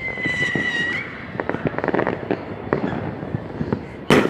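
Fireworks display: a whistling firework for about a second, its tone falling slightly, then a rapid scatter of crackling pops, and one loud bang near the end.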